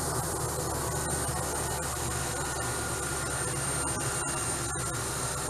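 MD500 turbine helicopter running steadily, a constant rush of engine and rotor noise with a thin high turbine whine over it.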